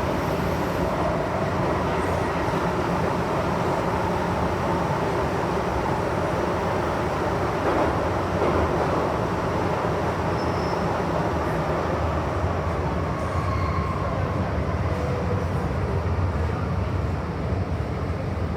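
MTR M-Train running between stations, heard from inside the car: a steady rumble of wheels on rail over a low motor hum, briefly louder about eight seconds in.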